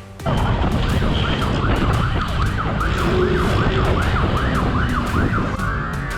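Police siren in a fast yelp, its pitch sweeping up and down about three times a second, switching to a slower wail near the end, over a heavy low rumble.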